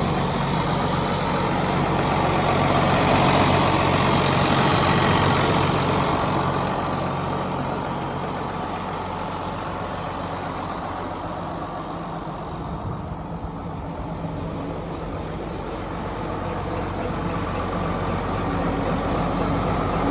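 Diesel engine of a 2005 Case IH MXM 190 tractor idling steadily. It is louder in the first few seconds, quieter through the middle, and louder again near the end.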